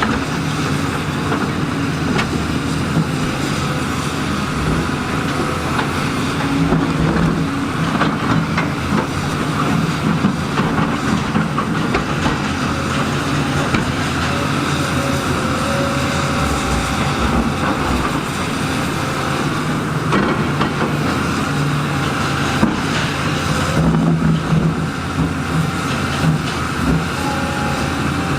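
Heavy excavator's diesel engine running steadily under load, with scattered clanks and knocks of metal and rock throughout.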